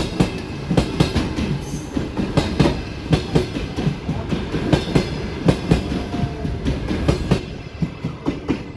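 Passenger train rolling past, its wheels clattering over the rail joints in a rapid, uneven run of knocks over a steady rumble. The clatter thins out and quietens near the end.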